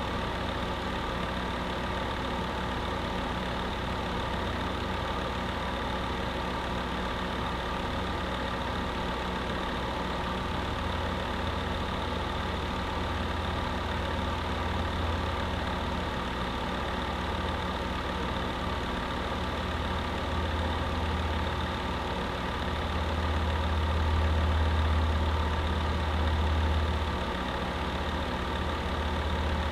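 Electric space heater running with a steady hum and noise. A low rumble in it grows louder for a few seconds late on, then settles.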